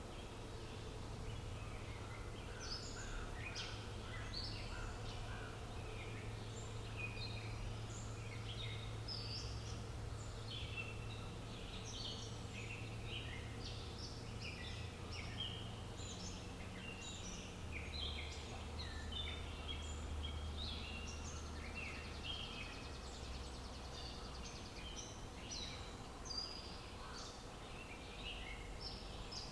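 Several small birds chirping and singing in quick, overlapping short notes, over a steady low background rumble.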